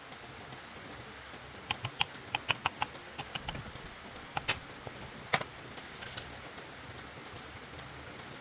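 A quick run of light, sharp clicks and taps, then a few single ones, the last the loudest, over a steady hiss.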